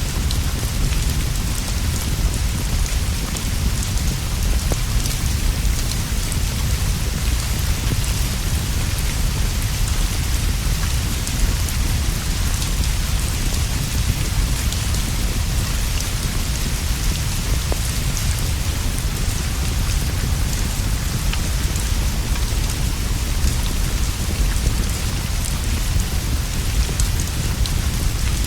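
Steady rainfall with a constant deep rumble underneath and faint scattered drop ticks, unchanging throughout.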